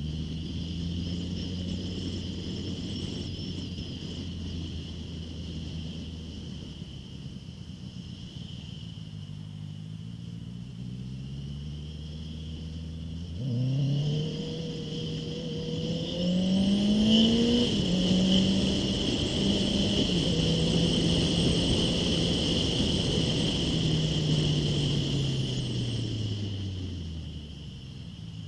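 Honda CBR650F inline-four engine through an Akrapovic full exhaust, running steadily at low revs, then accelerating hard about halfway through, its pitch climbing through a couple of gear changes. It holds at higher revs, then eases off and falls away near the end.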